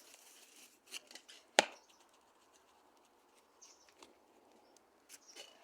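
Small campfire of birch bark and sticks crackling faintly, with one sharp pop about a second and a half in.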